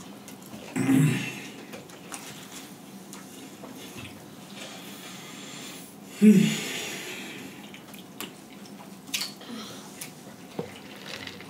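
Close-up eating sounds: chewing and wet mouth noises, with a short louder mouth sound about a second in. About six seconds in comes the loudest sound, a drink sipped through a straw, and a few small clicks follow near the end.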